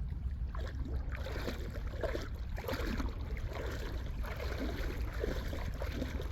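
Shih Tzu dog-paddling in water: soft sloshing and splashing from its strokes, about two a second, over a steady low rumble.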